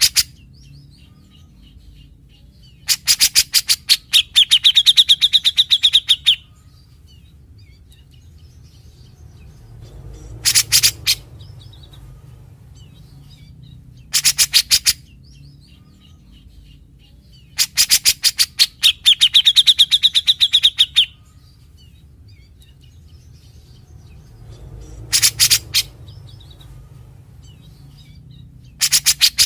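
Cucak jenggot (grey-cheeked bulbul) singing in bursts of fast, harsh rattling notes, the rasping 'besetan' the species is known for. Two longer phrases each end in a drawn-out buzzy note, with shorter rattles between them and pauses of a few seconds.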